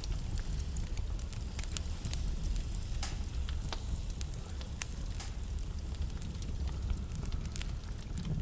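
Wood fire burning in a fireplace: a steady low rumble of flame with frequent irregular crackles and sharp pops from the burning logs, a few louder pops about three and five seconds in.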